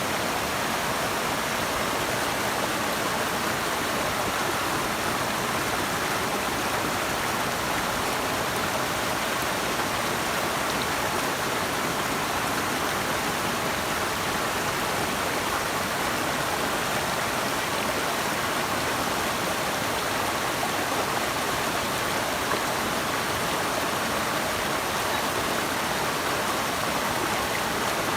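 A steady, unbroken rush of flowing water from a stream or waterfall.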